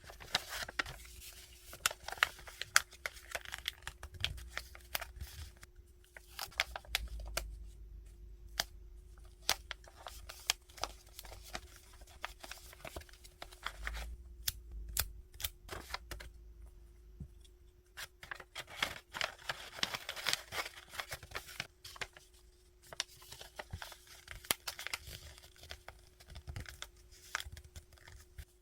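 Hands packing small stationery orders: paper and plastic packaging rustling and tearing, with many sharp clicks and taps, in bursts with short quieter gaps. A faint steady hum runs underneath.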